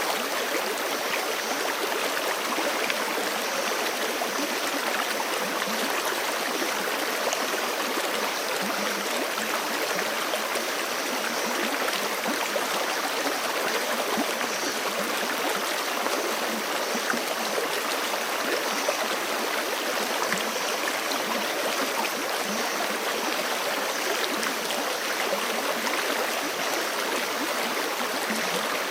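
Forest creek running fast over rocks, a steady rushing and gurgling of water that holds the same level throughout.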